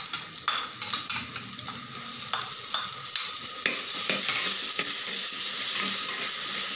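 Ginger-garlic paste and onions frying in oil in a clay pot, stirred with a steel ladle that scrapes and clicks against the pot. The sizzling grows steadier and louder about halfway through.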